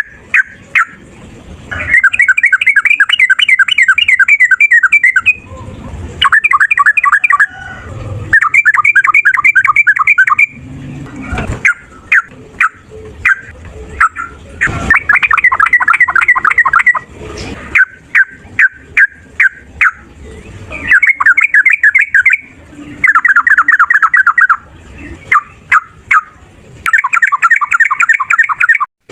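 Yellow-vented bulbul (trucukan) giving long, rapid chattering trills, the 'ropel' fighting song. The trills come as phrases of a couple of seconds each, about seven times, with single sharp chips between them.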